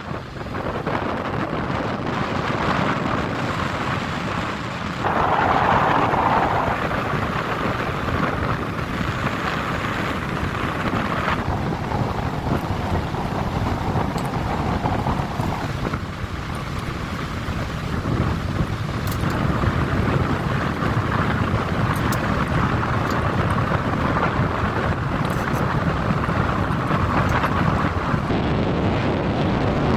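Wind rushing and buffeting the microphone outdoors in a snowstorm, a steady noisy rush that shifts abruptly in level and tone a few times.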